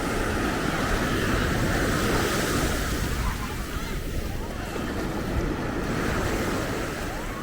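Ocean surf breaking and washing up the beach, with wind on the microphone. The surf swells about two seconds in and eases after.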